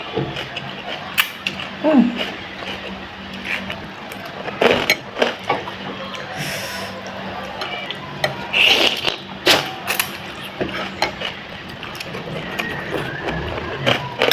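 Eating sounds: a spoon or fork clinking and scraping against a bowl, mixed with the mouth sounds of eating spicy instant noodles and crunchy basreng. A faint steady low hum runs underneath.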